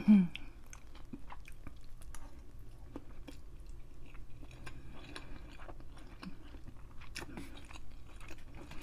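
A person chewing a mouthful of hibachi noodles close to the microphone: many small, irregular mouth clicks. A short vocal sound at the very start is the loudest moment.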